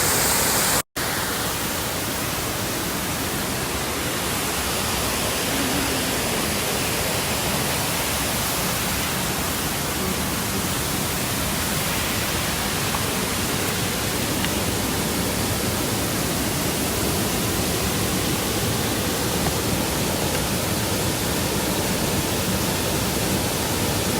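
Waterfall rushing, a steady even hiss of falling water, cut off for an instant about a second in.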